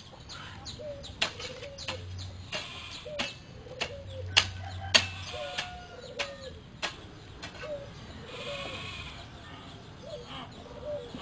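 A run of short animal calls: sharp chirps and clicks about every half second, with brief low hooked calls between them.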